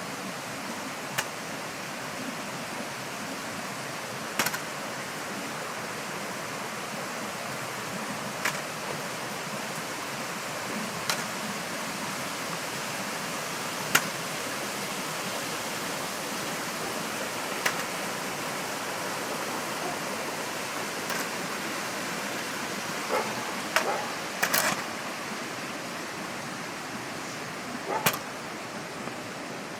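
A steady rushing hiss with sharp clicks every few seconds, and a dog barking a few times near the end.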